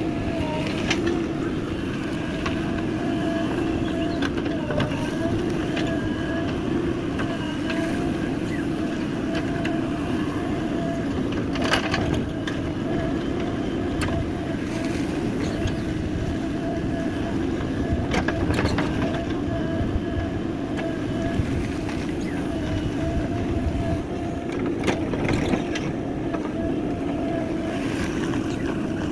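JCB 3DX backhoe loader's diesel engine running steadily under working load, with a few sharp knocks scattered through.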